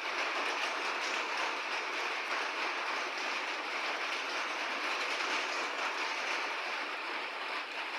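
Steady rain falling, an even hiss with fine scattered ticks of drops.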